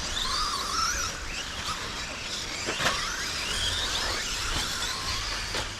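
Electric motors of several radio-controlled 2wd stadium trucks whining, rising and falling in pitch as the trucks accelerate and brake around the dirt track, with a sharp knock about three seconds in.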